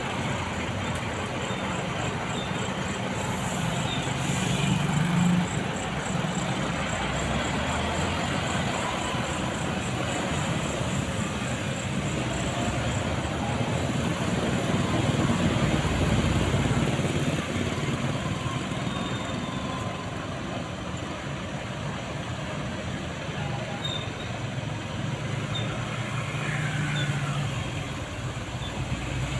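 Heavy truck engine running with road traffic noise. It swells for a few seconds midway.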